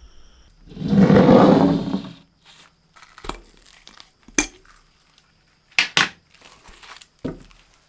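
Metal parts being handled: a loud rattling scrape lasting about a second and a half, then a few sharp metallic clinks as pieces are knocked or set down.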